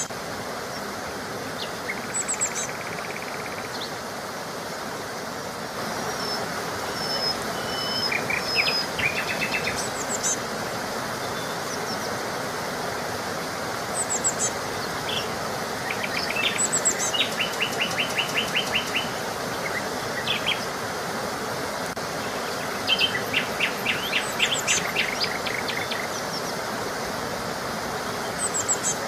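Small songbirds chirping and trilling in short repeated phrases over a steady background hiss, with rapid trills about two-thirds of the way through and again near the end.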